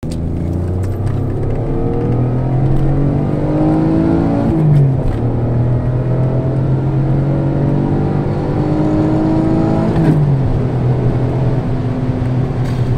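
Alfa Romeo GT's 3.2-litre Busso V6 pulling through the gears, its note climbing steadily with revs. It drops sharply at an upshift about four and a half seconds in and again about ten seconds in, then climbs again each time.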